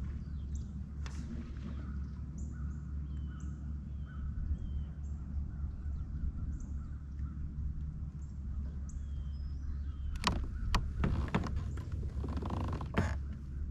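Birds calling over and over above a steady low rumble, with a burst of sharp knocks and clatter about ten seconds in.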